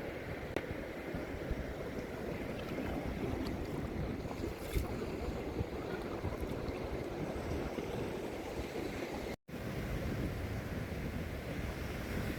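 Sea surf washing on a beach, a steady rush of waves, with wind buffeting the microphone. The sound cuts out completely for a moment about nine seconds in.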